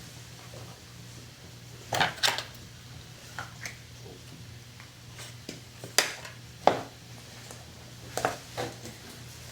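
Light clacks and taps of small crafting tools handled on a hard tabletop, about eight sharp knocks, several in quick pairs, over a faint steady hum.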